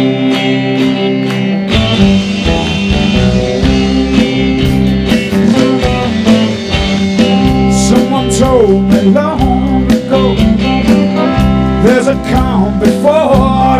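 Live rock band playing a song intro: a guitar line with bent, sliding notes over strummed guitar. Bass and drums come in about two seconds in.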